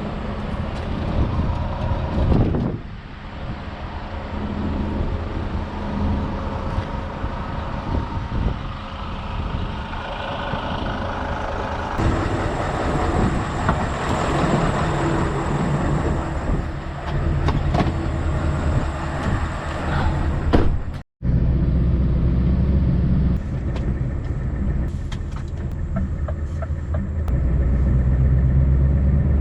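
Scania V8 truck engine running. After a brief cut about two-thirds of the way in, the engine is much louder and closer, with a strong steady low hum.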